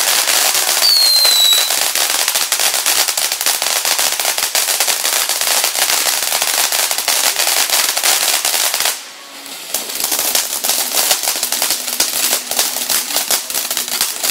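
Ground-fountain fireworks going off together with dense, rapid crackling. A short whistle falls in pitch about a second in. The crackle drops away briefly just past the middle, then starts again.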